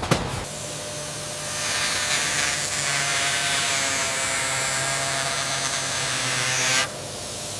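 A small electric motor, like a power tool's, clicks on and whirs steadily at an even pitch, growing stronger about a second and a half in, then cuts off suddenly near the end.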